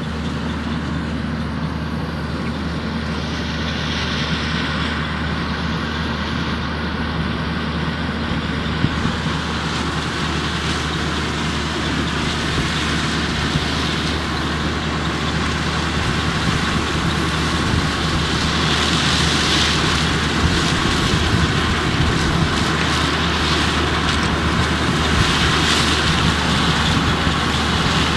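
Antique 45 combine running steadily while harvesting corn: a constant low engine hum under a busy mechanical rattle from the machinery, growing gradually louder.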